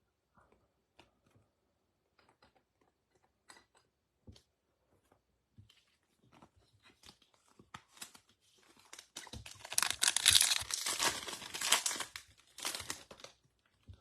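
Light handling clicks, then from about nine seconds in a loud tearing and crinkling of a trading card pack's foil wrapper being ripped open, lasting about four seconds.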